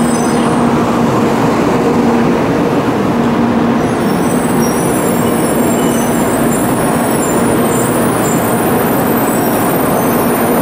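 Shinkansen bullet train running slowly along the platform: a loud, steady rumble of wheels and running gear with a low hum that comes and goes.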